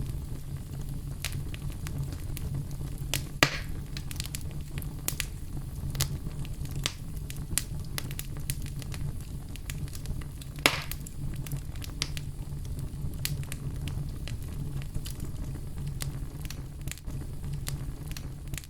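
Oak logs burning in a fireplace: a steady low rumble of flame with frequent small crackles, and two louder pops about three and a half and ten and a half seconds in.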